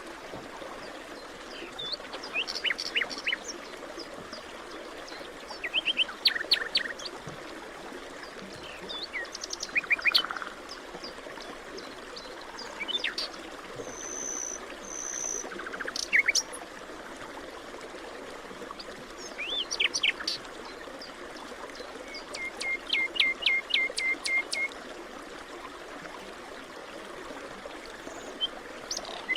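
Forest songbirds singing, short phrases of chirps and whistles every few seconds, with a quick run of repeated notes a little past the middle. A steady rushing background runs underneath.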